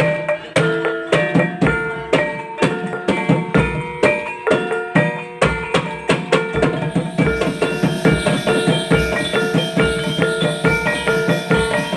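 Percussion-led music for a Topeng Ireng folk dance: drums beating a steady rhythm under repeated struck, pitched metallic tones. A high rattling hiss joins about seven seconds in.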